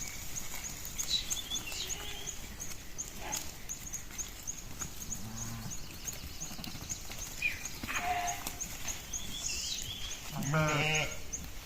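Sheep bleating: a low bleat about halfway through and a louder, quavering bleat near the end. A short high chirp repeats about three times a second throughout.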